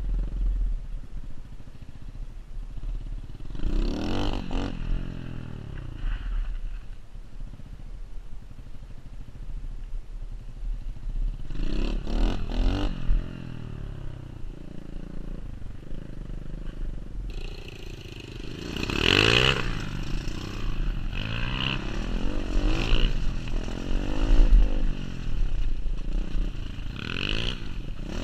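A pit bike's small single-cylinder engine being ridden off-road, revving up and falling back again and again with each burst of throttle, over a steady low rumble of wind on the microphone.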